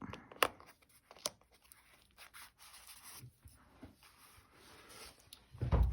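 Paper and card being handled on a craft table: a few light taps in the first second or so, then soft rubbing and rustling, and a dull thump near the end.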